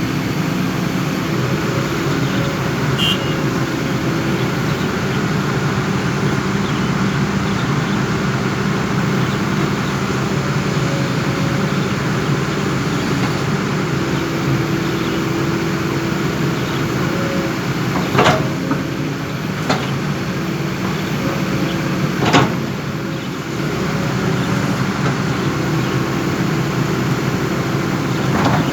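Excavator diesel engine running steadily under work. There are three sharp knocks about two-thirds of the way through and another near the end.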